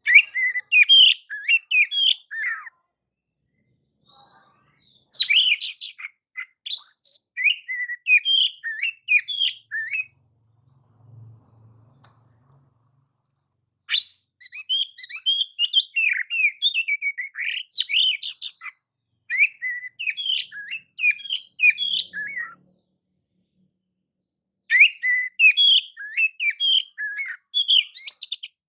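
Oriental magpie-robin singing: quick, varied whistled and chattering phrases in four bouts separated by pauses of a few seconds.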